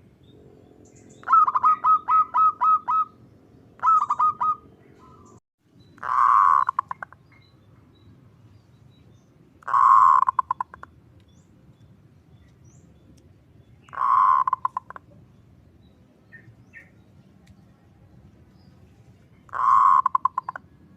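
Zebra dove (perkutut) calling: a quick run of about seven short notes, then three more, followed by four longer rolling coos spaced roughly four seconds apart, over a low steady background noise.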